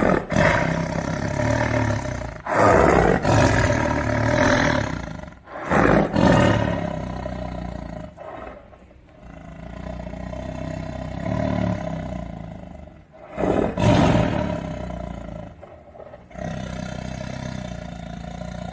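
Tiger roaring repeatedly: several loud roars a few seconds apart, with quieter calls between them.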